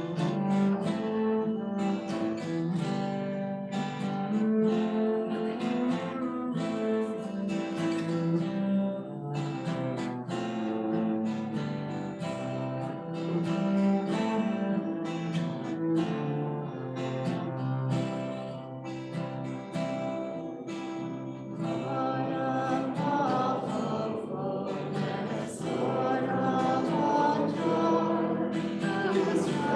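Acoustic guitar playing the opening hymn, with singing voices coming in about two-thirds of the way through.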